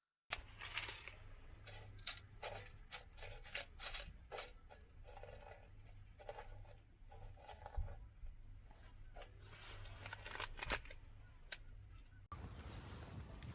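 Faint, irregular clicks and short scraping sounds of small objects being handled, ending in an abrupt cut near the end.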